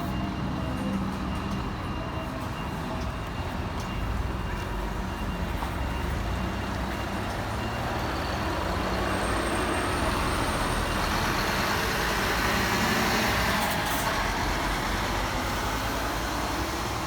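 Scania Irizar i5 coach's diesel engine running as the bus pulls out. The engine and rushing noise build about halfway through, are loudest a few seconds before the end, then ease off.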